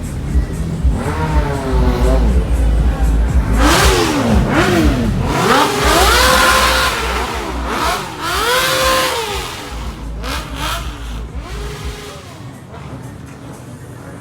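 A Hyundai Elantra's aftermarket car sound system plays loud, bass-heavy music, with repeated rising-and-falling revving sounds over it. The deep bass stops about twelve seconds in and the sound fades.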